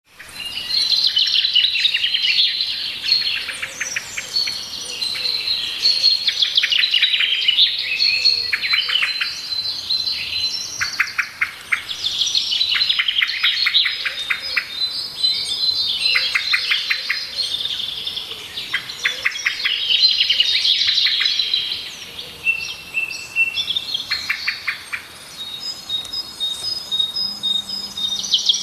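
Songbirds chirping and singing, several calls overlapping, with short quick trills recurring every few seconds.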